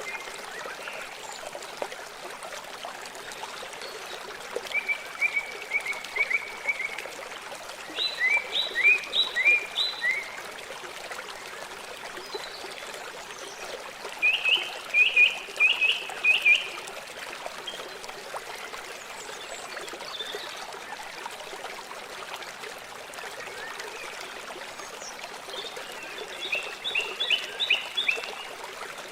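River water flowing steadily, with a songbird calling over it in four short runs of quick, repeated high notes.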